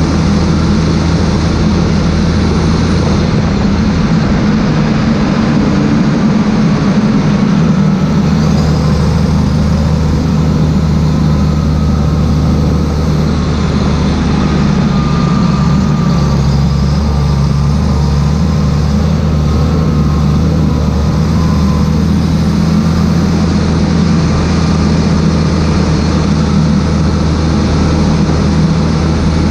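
Claas Xerion 3800 tractor's diesel engine running steadily, with a deep, even hum.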